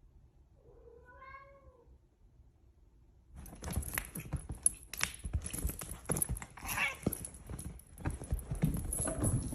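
A cat meows once, a single drawn-out call that rises a little and then falls. A few seconds later comes a steady run of irregular knocks and rustling.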